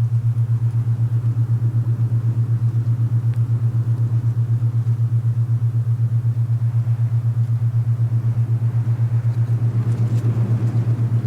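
Alpha binaural beat: a low, steady hum pulsing rapidly and evenly, laid over a soft rush of wind that swells briefly near the end.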